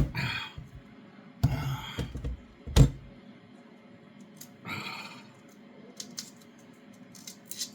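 Kitchen knife knocking and tapping on a chopping board while halving Brussels sprouts. Two sharp knocks, at the start and about three seconds in, then a run of light irregular clicks.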